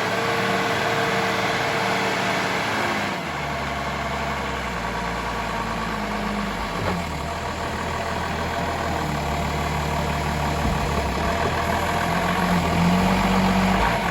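Toyota 7FDU45 forklift's diesel engine running, its pitch shifting up and down several times as the engine works the hydraulics to raise the mast all the way up.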